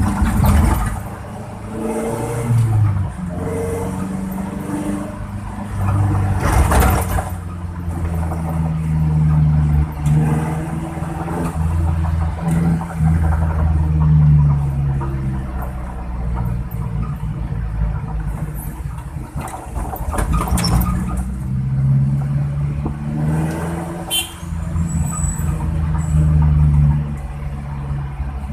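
Suzuki Carry engine running with a deep, snoring exhaust note that sounds like a bus, its pitch rising and falling as the revs change. A few sharp knocks come through in between.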